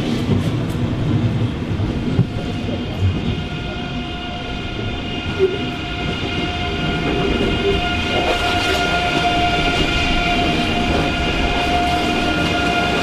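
A train running through a station: a low rumble with a steady high-pitched whine that grows stronger about eight seconds in.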